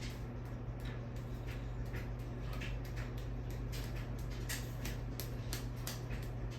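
42-inch 101 Dalmatians ceiling fan running on high speed: a steady motor hum with a run of light ticks about two to three times a second.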